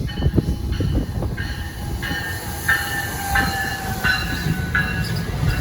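A train passing close by: heavy rumble with high ringing tones that shift in a regular step about every two-thirds of a second.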